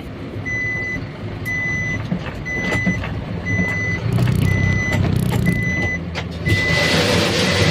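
Truck reversing alarm beeping steadily about once a second at a single high pitch, over the low running of the Isuzu Elf NMR's diesel engine. A loud hiss sets in about six and a half seconds in.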